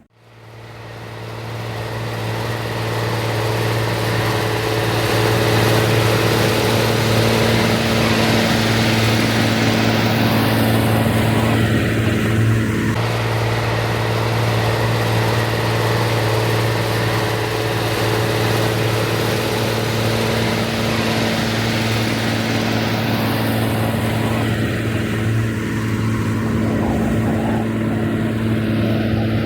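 Rába 250 tractor's diesel engine running steadily at constant revs, fading in over the first few seconds and then holding a constant level.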